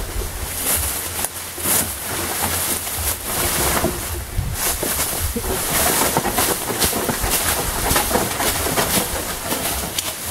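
Long bamboo poles dragged by hand over the ground and through brush: continuous scraping and rustling with frequent sharp scrapes, over a low rumble.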